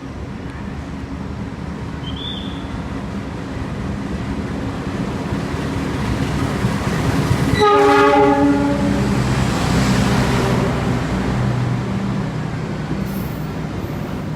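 CC 206 diesel-electric locomotive hauling a passenger train through a station without stopping: a steady rumble that grows louder, a horn blast of about a second near the middle (the Semboyan 35 horn signal), then the locomotive and cars passing loudest and slowly fading.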